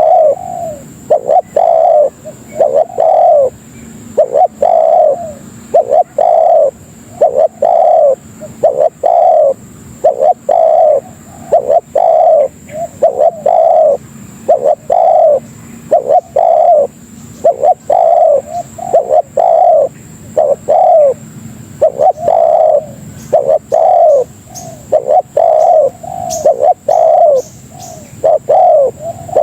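Spotted dove (tekukur) cooing, with short repeated coos in a steady rhythm grouped into phrases with brief pauses, used as a lure call. A faint steady high whine runs underneath.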